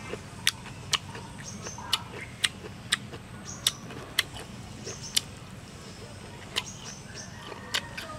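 Close-up eating sounds as a man chews a mouthful of spicy beef salad: wet lip smacks and chewing clicks that come irregularly, about one every half second to a second.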